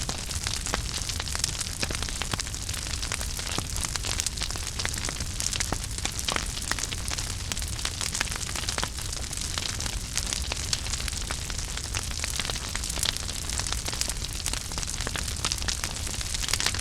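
Wood fire in a fireplace burning steadily, with a constant hiss and many sharp crackles and pops scattered throughout over a low rumble.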